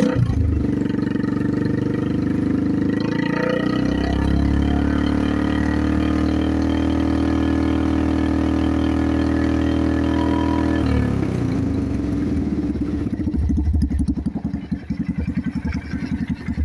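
Polaris 500 HO single-cylinder four-stroke engine running with no muffler fitted. It idles, is revved up about four seconds in and held steady, then drops back to a fast, even idle about eleven seconds in.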